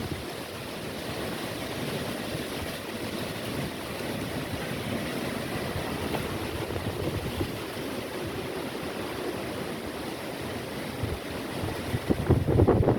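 Strong wind blowing and buffeting the microphone in a steady rushing noise, with harder gusts rumbling about twelve seconds in.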